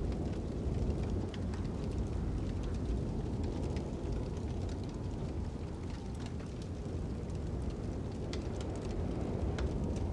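Crackling fire with wind blowing: a steady low wind noise with scattered small pops and crackles.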